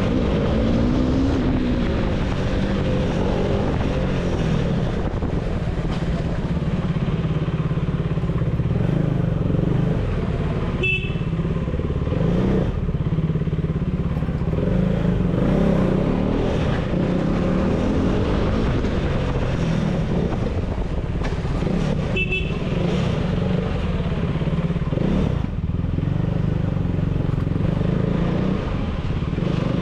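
KTM Duke 390 single-cylinder engine through an aftermarket dual exhaust, running continuously while the bike is ridden, the revs rising and falling.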